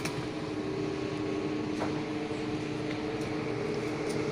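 Steady mechanical hum with a couple of held low tones, like a motor running, with a faint click near the middle.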